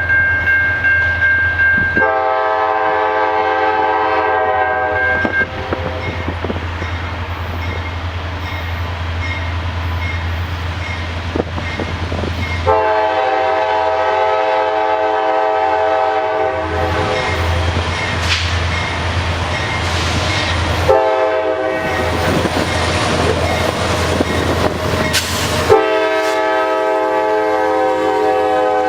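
Diesel freight locomotive's air horn sounding the grade-crossing signal, long, long, short, long, over the steady drone of the leading Norfolk Southern C40-9 and SD70M-2 diesels. The last long blast is still sounding at the end.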